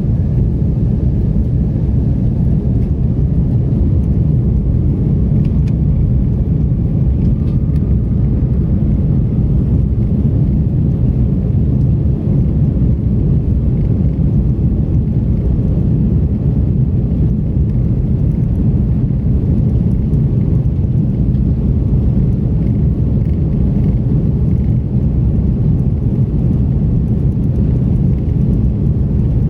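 Steady low rumble of a moving Airbus A330-300, heard from inside its passenger cabin.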